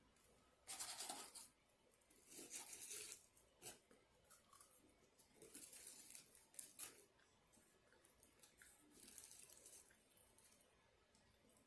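Faint paper food wrapper rustling and crinkling in several short bursts over a few seconds, being handled.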